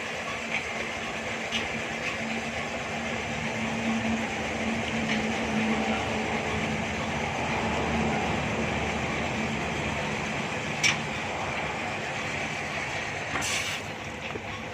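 Pressure washer running steadily, its pump humming under the hiss of the spray gun's water jet. There is a single sharp click about eleven seconds in.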